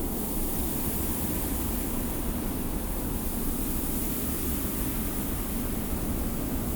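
Steady wind with a high hiss of blowing sand over a low rumble.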